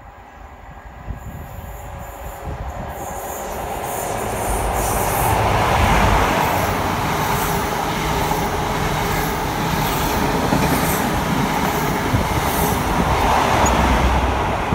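High Speed Train with Class 43 power cars and Mark 3 coaches running past along the platform. It grows louder over the first five seconds or so, then stays loud and steady as the coaches and the rear power car go by. A regular clatter of the wheels over the rail joints comes about once a second.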